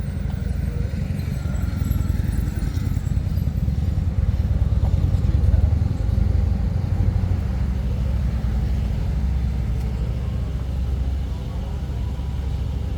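A motor vehicle's engine running with a steady low rumble, which grows louder a few seconds in and then eases off.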